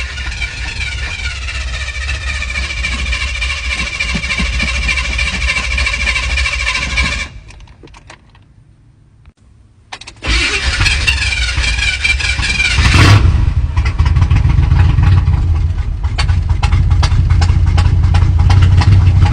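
Squarebody Chevrolet C10 pickup's starter cranking the engine for about seven seconds, stopping, then cranking again. About three seconds into the second try the engine fires on gas poured into the carburetor and keeps running.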